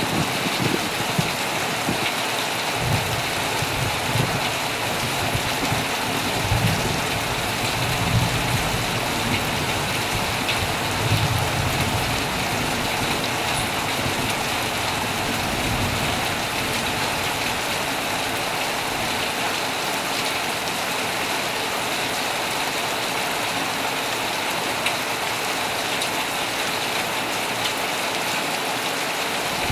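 Heavy rain falling steadily, a dense even hiss of drops. A low rumble swells and fades several times through the first half, then settles.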